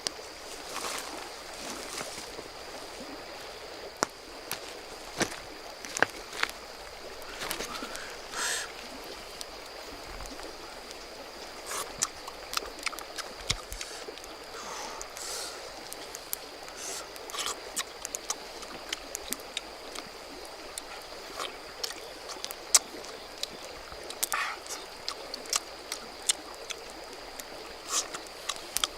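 Steady rush of flowing river water with many short, sharp clicks and taps scattered through it, and a faint steady high-pitched tone.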